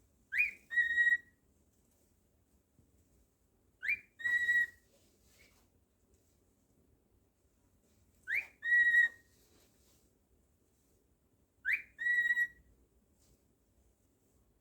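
Cockatiel whistling the same two-note phrase four times, about every four seconds: a quick upward-sliding note, then a short held note.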